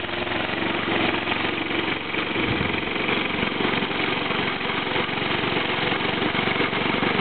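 Snowblower engine running steadily with a rapid, even chugging beat.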